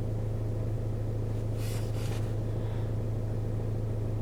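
Steady low hum inside a car's cabin, from the idling engine or the ventilation fan, with a brief faint rustle about two seconds in.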